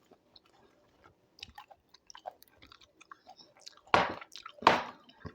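A person eating doi chicken and rice: soft, wet chewing and mouth clicks, then two louder, longer noisy mouth sounds near the end.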